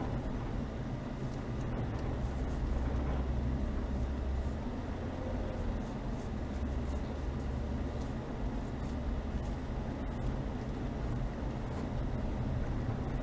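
Chevrolet Niva driving slowly over a snowy forest track: a steady low engine and drivetrain drone with tyre noise and a few faint clicks.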